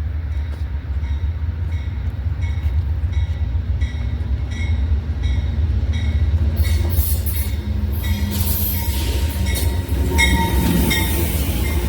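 Train passing on the rails, its wheels clicking over the rail joints in a steady rhythm about twice a second, over a constant low rumble. A faint thin squeal comes in near the end.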